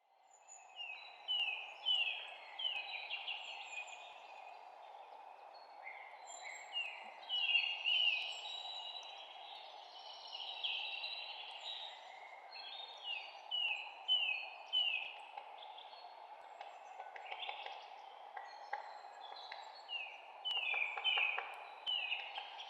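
Songbirds chirping, with many short down-slurred notes in quick series, over a steady low hiss of background noise. The sound comes in from silence at the start.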